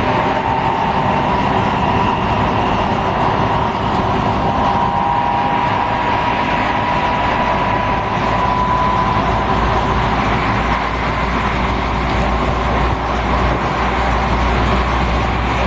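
Electric commuter train running: a steady rumble and rush with a faint motor whine that rises slightly in pitch, and a deeper low rumble that comes in about halfway through.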